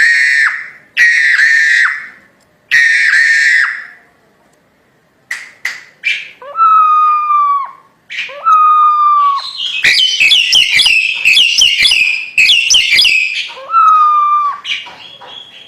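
Crested myna calling loudly: three harsh, rasping calls of about a second each, then after a short pause some clicks, clear down-slurred whistles and a burst of fast, busy chattering.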